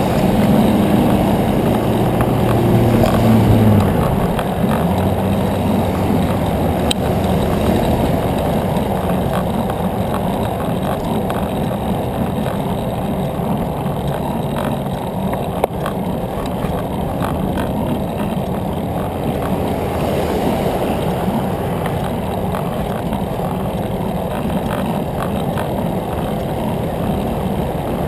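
Wind rushing over the microphone of a moving bicycle, steady throughout, with a low hum in the first few seconds.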